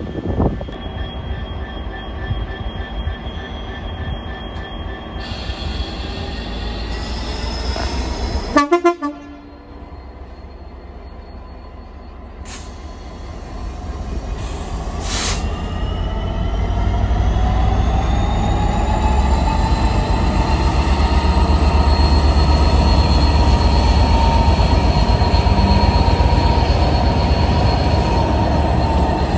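A train at a station: its horn sounds briefly about eight and a half seconds in. From about fourteen seconds a train running past grows louder and stays loud, with a steady high whine.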